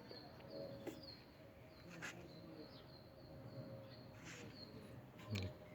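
Faint bird chirping: a quick run of short, high, slightly falling chirps, several a second, over a faint steady hum and a few soft clicks.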